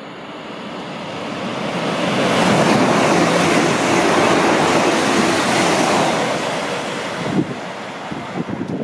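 London Northwestern Railway Class 350 Desiro electric multiple unit running through the station at speed: a rushing noise of wheels and air that swells over two or three seconds, holds, then fades as the train goes by. A single thump about seven seconds in, then gusty wind buffeting on the microphone.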